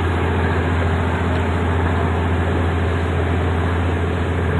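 Diesel railcar engine idling: a steady low hum with even tones above it.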